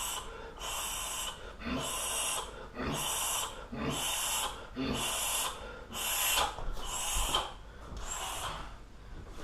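A man breathing hard in an even rhythm: hissing breaths about once a second.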